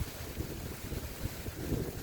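Tropical-storm wind gusting over the microphone: irregular low buffeting thumps over a steady rushing hiss.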